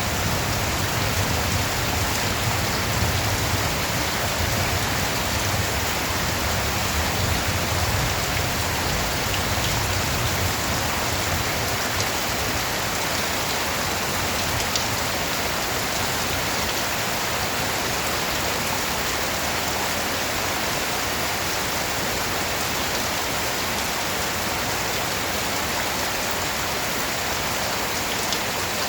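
Steady rain falling, an even hiss of drops on a surface. A low rumble underneath fades away over the first ten seconds or so.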